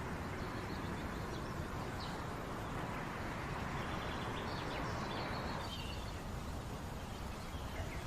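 Steady background ambience with a few faint bird chirps.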